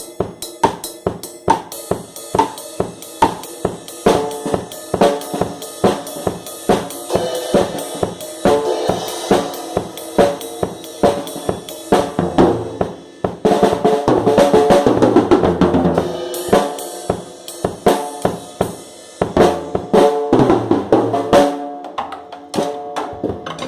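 Drum kit being played: a steady run of kick, snare and cymbal hits, with a denser, louder stretch of continuous playing around the middle.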